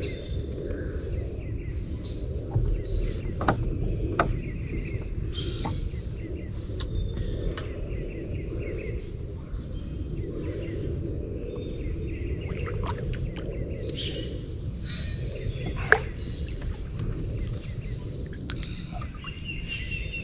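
Wild birds chirping and calling again and again in the swamp over a steady low rumble, with a few sharp knocks, the loudest about three-quarters of the way through.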